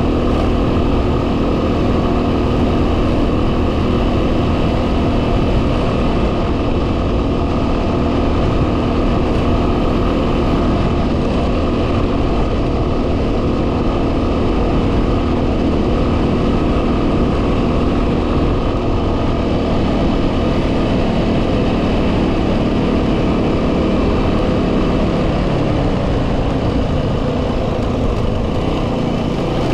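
Yamaha WR250R's single-cylinder four-stroke engine running at a steady cruising speed, with heavy wind noise on the microphone.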